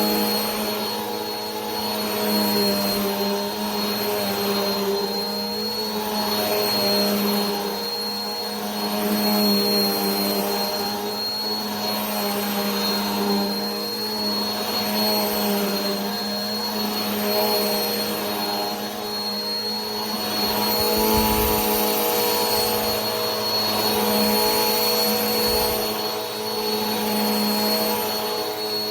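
Vacuum cleaner motor running continuously with a low hum, a high steady whine and a rush of air. The loudness swells and eases gently about every two seconds.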